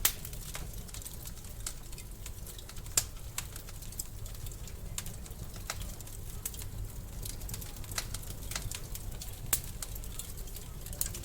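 Wood fire crackling in a fireplace: irregular sharp pops and snaps over a steady low rumble, with louder pops right at the start, about three seconds in, and again about nine and a half seconds in.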